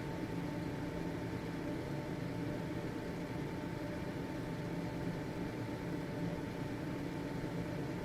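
Household ventilation fan (exhaust fan) running steadily: an even whooshing noise with a low motor hum and a faint high steady tone.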